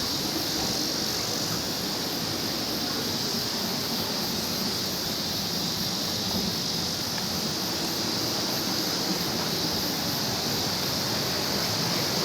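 Steady rushing water of a mountain stream flowing over rocks.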